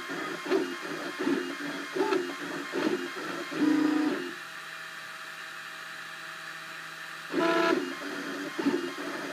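Cubify 3D printer's stepper motors whirring in short pitched bursts as the print head moves, then holding a steady, quieter hum for about three seconds before another loud burst near the end.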